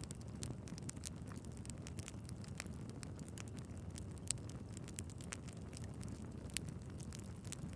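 Wood fire burning in a fireplace: a steady low rumble of flames with constant fine crackling and a few sharper pops, the loudest about four seconds in.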